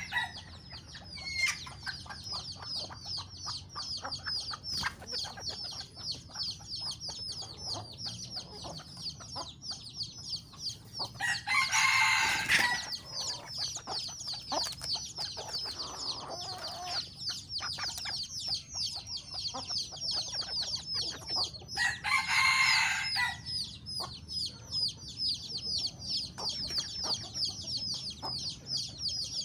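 Chickens: a continuous dense chorus of short high peeps, with a rooster crowing twice, once near the middle and again about three quarters of the way through.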